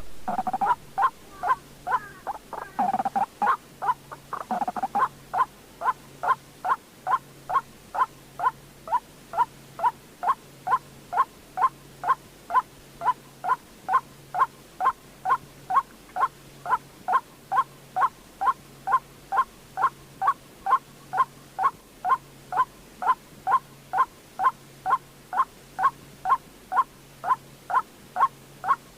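White-breasted waterhen (chim quốc) calling: short, sharp notes repeated evenly about twice a second, with a few overlapping, irregular notes in the first few seconds. This is the call that trappers play as a lure for the bird.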